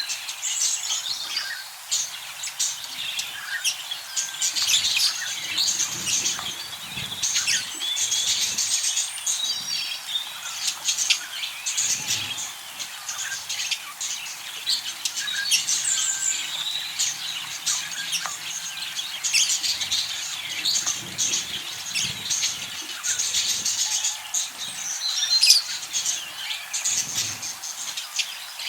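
Several budgerigars chattering and warbling together, a dense run of overlapping chirps and whistles, with occasional soft low thuds among them.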